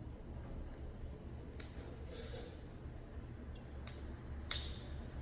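Light, sharp clicks as a thin steel oil-ring rail is walked around onto a piston's ring groove, two of them standing out about a second and a half in and near the end, over a low steady hum.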